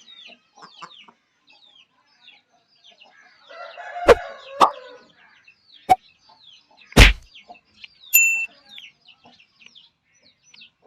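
Chickens: high, falling peeps repeat all through, with a burst of hen clucking around four seconds in. Four loud sharp knocks come between about four and seven seconds, and a short steady high tone sounds a little after eight seconds.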